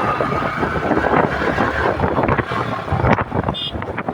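Wind buffeting the microphone on a moving motorcycle, with the bike's engine and road noise underneath.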